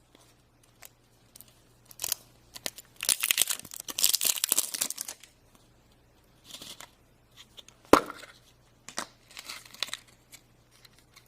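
A surprise-toy wrapper being torn open and crinkled by hand: scattered sharp clicks, a stretch of tearing and rustling from about two to five seconds in, a sharp snap about eight seconds in, then more rustling.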